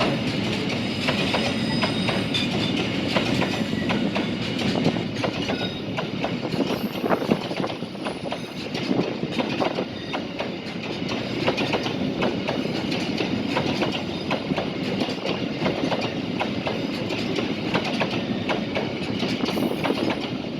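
Train running along the track, its wheels clattering and clicking over the rails over a steady rumble.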